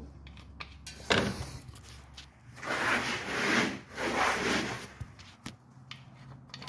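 A sharp knock about a second in, then two rubbing, scraping sounds, each about a second long, as something is handled and rubbed against a surface.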